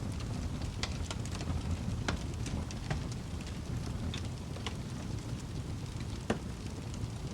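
Wood fire crackling in a fireplace: a steady low rumble of flames with frequent irregular sharp pops and snaps, one louder pop about six seconds in.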